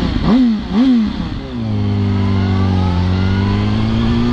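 Motorcycle engine blipped twice in quick succession, as in downshifting, then pulling steadily with its pitch dipping slightly and then slowly rising as it accelerates.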